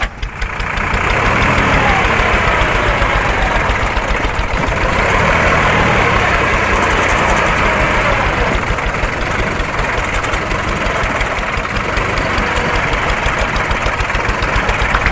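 A vehicle engine running steadily at idle, with a dense low rhythmic pulse.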